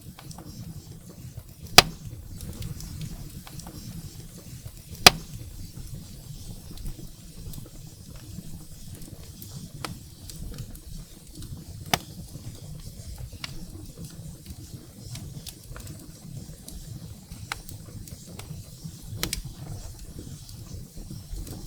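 Firewood burning in a fireplace: a steady low rumble of flame with scattered crackles and a few sharp pops, the loudest about two and five seconds in.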